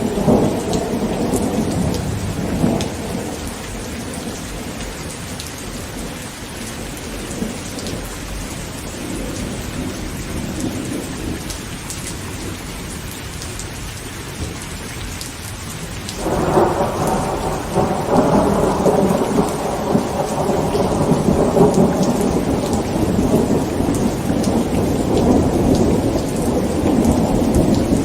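Heavy rain pattering on a tent, with thunder. A rumble dies away over the first few seconds, then a louder rumble breaks in suddenly a little past the middle and keeps rolling.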